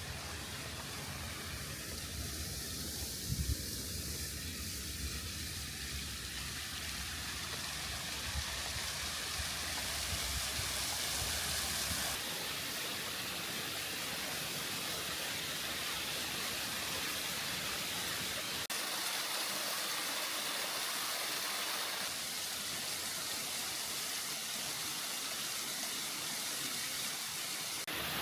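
Steady rushing of flowing water, such as a waterfall or stream, with a low rumble under it in the first part. The sound changes abruptly twice, as at cuts between shots.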